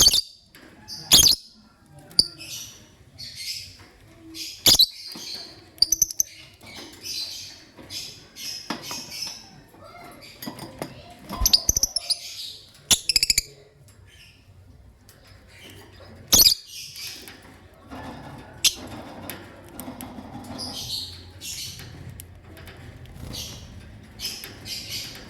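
Lovebirds chirping and squawking: a steady run of short, high, rapid calls, broken by a few sharp clicks. A low rumble comes in toward the end.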